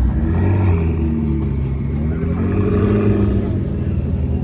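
Car engine running at low revs, its pitch drifting gently up and down.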